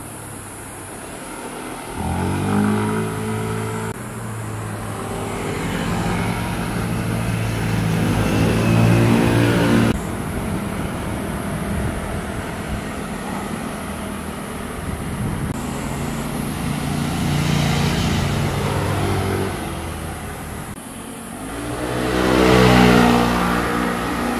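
Motorcycles riding past one after another, their engines revving and accelerating with a rising pitch as each goes by. There are several passes, the loudest near the end, and the sound cuts off abruptly a couple of times.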